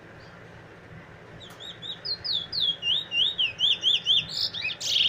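Male Trinidad bullfinch (chestnut-bellied seed finch) singing: after about a second and a half, a fast run of sweet slurred whistles, about four a second, growing louder and ending in a harsher, buzzy note.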